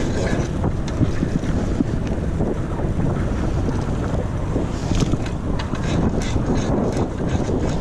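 Wind buffeting the microphone on a moving bicycle, a steady low rushing, with a few sharp clicks from the bike in the second half.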